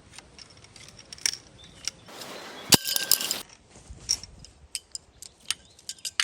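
Camping gear being handled while a tipi is pitched: scattered light clicks and knocks, a brief rasp about two seconds in, then a quick cluster of loud metallic clinks.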